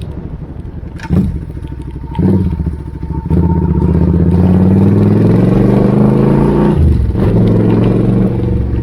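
Suzuki Intruder 800 V-twin motorcycle engine running through the exhaust being tried out: idling, blipped twice, then revved and held with the pitch climbing slowly, dropping briefly, held again, and falling back to idle near the end.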